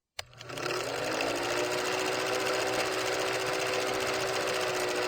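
A small electric motor whirring: it starts with a click, rises in pitch over the first second as it spins up, then runs at a steady speed until it stops.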